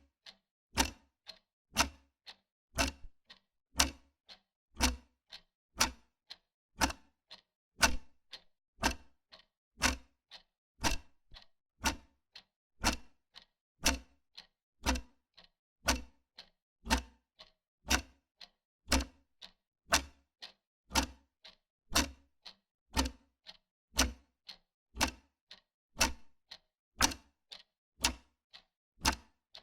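Wall clock ticking steadily, about two ticks a second, alternating louder and softer in a regular tick-tock.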